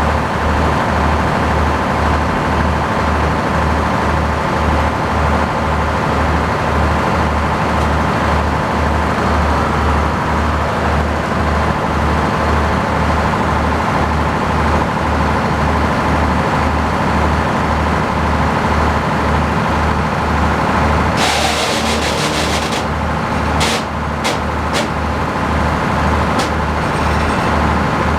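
Tractor engine running steadily at a sawmill, with a low pulse repeating about twice a second. About 21 seconds in comes a short hissing burst, followed by a few sharp clicks.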